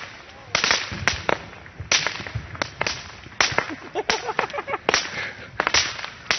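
Consumer fireworks going off: an irregular series of sharp cracks, about a dozen in six seconds.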